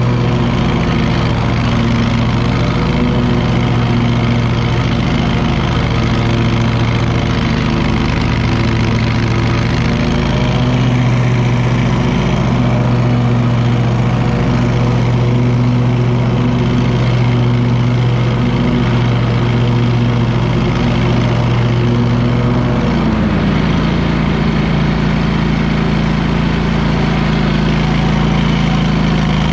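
Engine of a Wright Stander stand-on riding mower running steadily while mowing; about 23 seconds in, its pitch drops slightly and holds at the lower speed.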